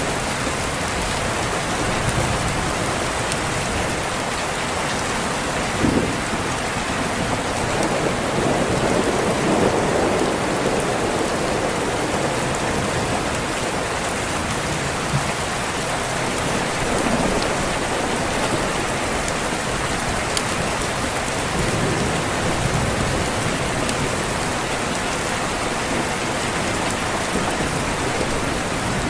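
Steady heavy rain hissing on a window. A low rumble of thunder swells and fades about eight to eleven seconds in, with fainter rumbles later.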